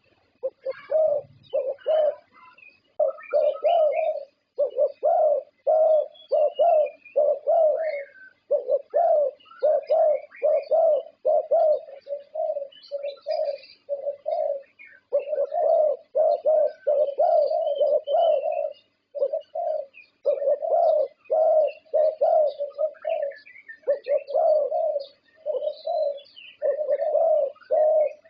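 Thai champion zebra dove (perkutut) cooing its competition song: runs of short, low, ringing coos, about two to three a second, broken every few seconds by brief pauses. Faint high chirps sound above it.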